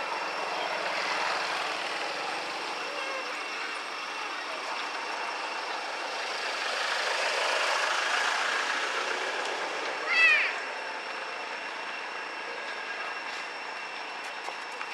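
Steady background noise with one short, high-pitched squeal from a baby monkey about ten seconds in.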